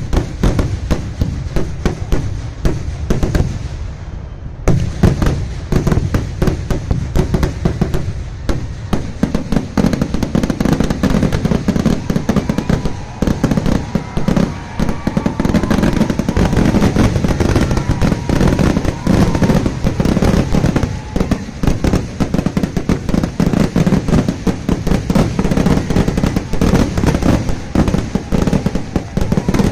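A dense barrage of firecracker bangs from a Kerala vedikkettu fireworks display, the blasts coming so fast they run together into one continuous crackling rumble. It thins briefly about four seconds in, then picks up again.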